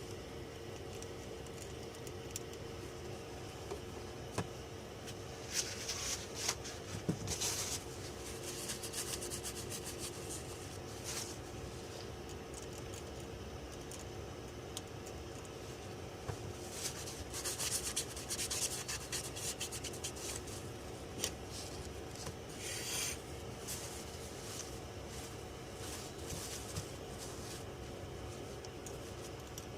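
Intermittent scratchy rubbing and scraping in irregular spells, over a steady low hum.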